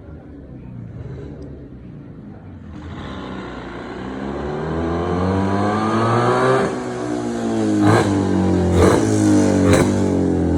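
Yezdi 350 Twin two-stroke twin-cylinder motorcycle engine running, revving up with a rising pitch over a couple of seconds and then falling back. Three sharp cracks about a second apart come late on.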